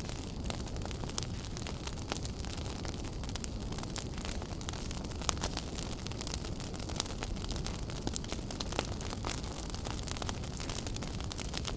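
Wood fire burning in a fireplace: a steady low rumble and hiss of flames with frequent small crackles and a few sharper pops.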